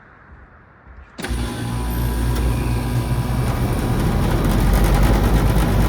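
Commercial HVAC package unit starting up about a second in: a sudden steady rush of air and a low mechanical hum as the condenser fans, one with a newly fitted motor, and the compressor come on, growing louder over the next few seconds.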